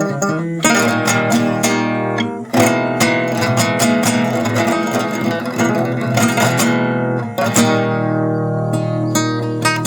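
CGC 100 NS steel-string acoustic guitar strummed in ringing chords, stroke after stroke, with short breaks between chord changes.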